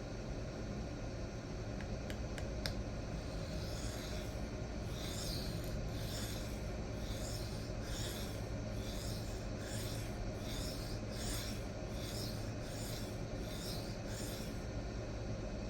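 D2 steel knife edge stroked back and forth on a 100 micron resin-bonded diamond stone, a run of even scraping strokes about one and a half a second that starts about four seconds in and stops near the end. The edge is at the burr-reducing stage of sharpening. A few light clicks come before the strokes begin.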